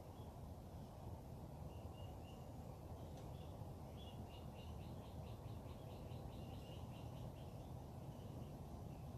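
Faint birdsong: a few short high calls, then from about four seconds in a rapid run of chirps, about four a second, over a steady low background rumble.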